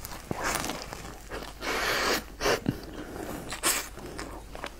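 A person biting into and chewing a crisp fried flatbread: irregular crunches and chewing noises, with a short louder burst about two seconds in.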